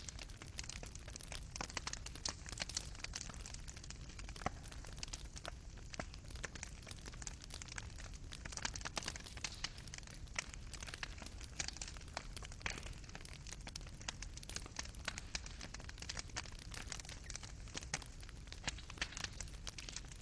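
Fireplace fire crackling: a dense, irregular run of small pops and snaps from burning coals over a low, steady rumble.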